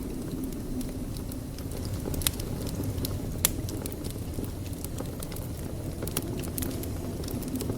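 Wood fire burning in a fireplace: a steady low rumble of flames with scattered sharp crackles and pops, two of them louder at about two and three and a half seconds in.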